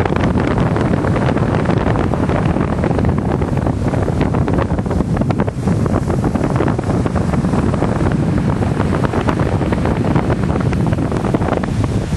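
Storm wind at sea blasting across the microphone: a loud, steady rush with constant gusty buffeting.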